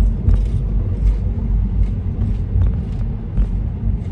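Road rumble heard inside a moving car's cabin, a steady low drone, with faint scattered ticks.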